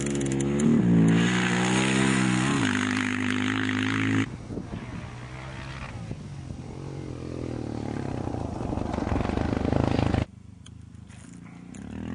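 Off-road rally bike engines at high revs passing close, the pitch rising and shifting with gear changes. The first engine sound cuts off suddenly about four seconds in; a second one builds up and cuts off suddenly again near the end.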